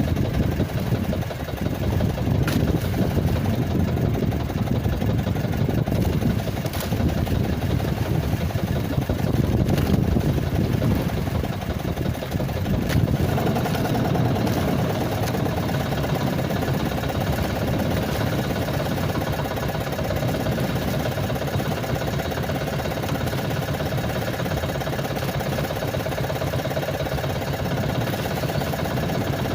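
A small boat engine running steadily. About halfway through, its note changes and a higher steady tone joins in.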